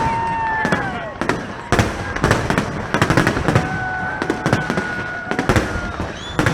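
Fireworks display: many sharp bangs and crackles in quick, irregular succession, with a few drawn-out whistling tones, one falling in pitch in the first second.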